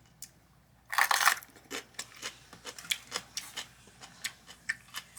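Close-up crunching of a toasted, broiled sandwich being eaten: a loud crunch about a second in, then many quick, crisp chewing crunches.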